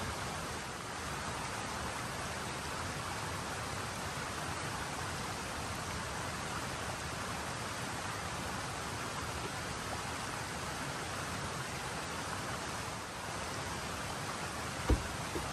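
Steady, even rushing of water, such as a creek running or rain falling, with a single sharp knock near the end.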